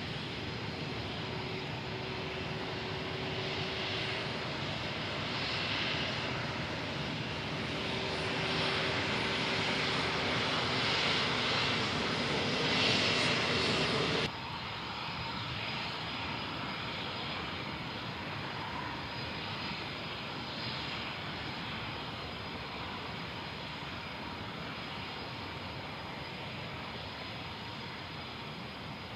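Jet noise from the Embraer KC-390's turbofan engines, a steady rush with a held whine that swells a little. About fourteen seconds in it cuts off suddenly to a quieter, steadier engine noise without the whine.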